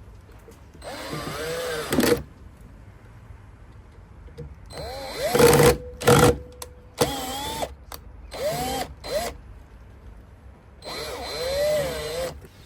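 Cordless power drill/driver running in several short bursts, its motor whine rising and falling as the trigger is squeezed and eased, while working the scooter wheel's screws.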